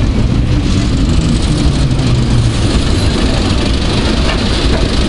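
Diesel locomotive engine idling: a steady low rumble.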